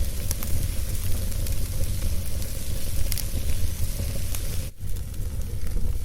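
Wood fire burning in a fireplace: a steady low rumble and hiss with scattered sharp crackles and pops, and a brief momentary drop in sound about three-quarters of the way through.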